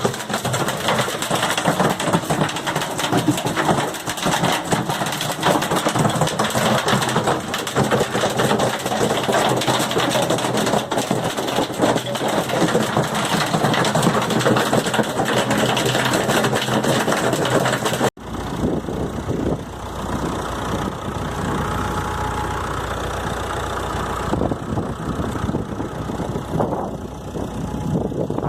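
Hailstorm: a loud, dense clatter of hailstones falling and striking. About 18 seconds in it cuts off abruptly and gives way to a duller, lower rushing with a deep rumble underneath.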